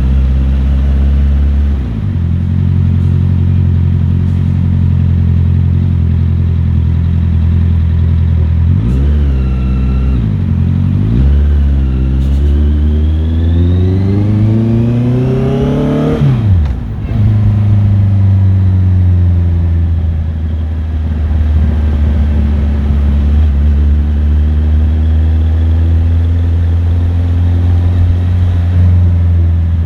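Motorcycle engine running under way. It gives two short blips of revs about nine and eleven seconds in, then climbs steadily in revs for about five seconds. The engine note drops sharply when the throttle closes, then settles into a steady lower note.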